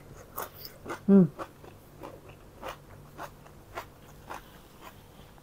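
Close-up crunchy chewing of a bite of raw cucumber: short crisp crunches about twice a second, with a brief closed-mouth "mm" about a second in.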